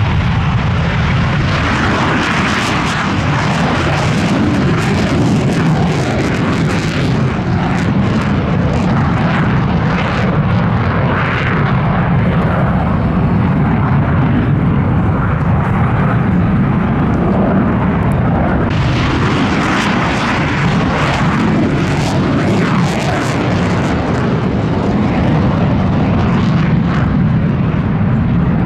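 Loud jet noise from an RF-4 Phantom's twin J79 turbojets in flight, a continuous rough rush. Its hiss grows harsher twice, near the start and again about two-thirds of the way through, as the jet passes.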